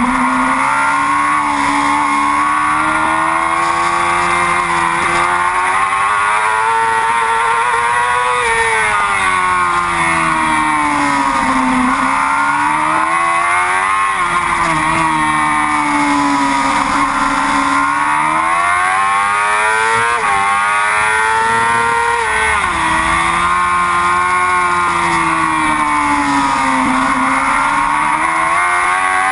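Yamaha R6 sport bike's inline-four engine at racing speed, its revs climbing and falling repeatedly as it accelerates and shifts, with one sudden drop in pitch about two-thirds of the way through.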